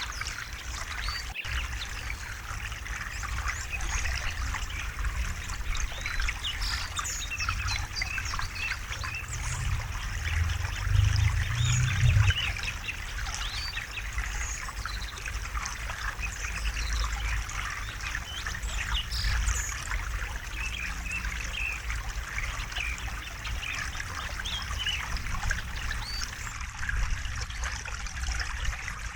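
River water flowing and trickling steadily over rocks, with short high chirps scattered through it. A low rumble swells louder about ten to twelve seconds in.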